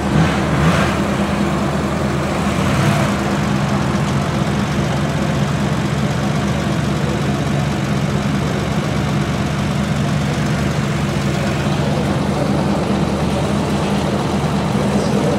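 A classic car's engine idling steadily at low speed, an even low note with no revving.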